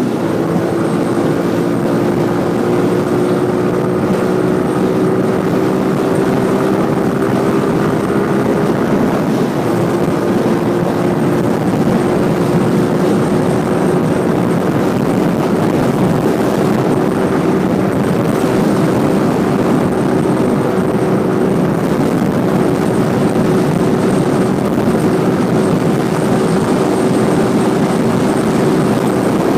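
Motorcycle engine running at a steady cruising speed, its pitch easing slightly in the first few seconds and then holding, under a steady rushing noise from riding.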